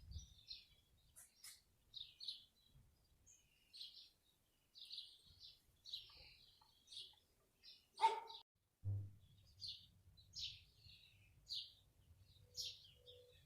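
Garden birds singing, with a steady run of short, high chirps and twitters throughout. A single louder, sharp call comes about eight seconds in, and a faint low rumble sets in soon after.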